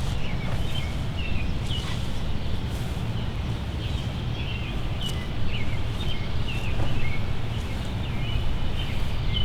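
Small birds chirping repeatedly in short calls over a steady low outdoor rumble.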